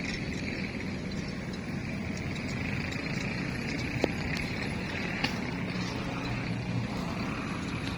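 An engine running steadily, with two short sharp clicks about four and five seconds in.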